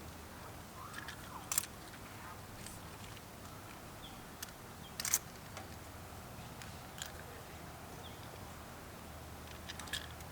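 A few scattered sharp clicks and taps from hands working cables and fittings onto a fuse block, the loudest about five seconds in, over a faint steady low hum.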